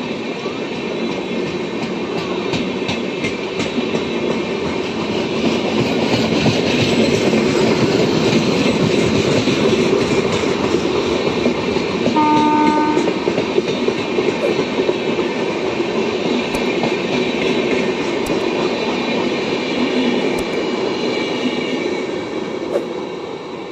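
Express train coaches running through a station at speed: a loud, steady rush of wheels on rail with scattered clacks, swelling in the middle and fading near the end. About halfway through, a train horn gives one short blast of about a second.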